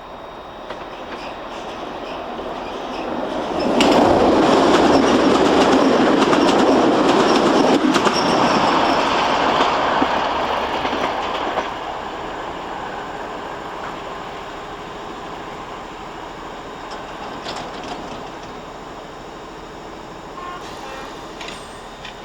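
A train running past on the rails, its noise building, loud for about eight seconds, then slowly dying away.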